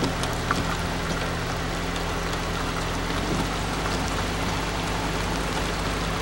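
Car engine running with a steady low hum under an even hiss of tyre and road noise, with scattered small ticks.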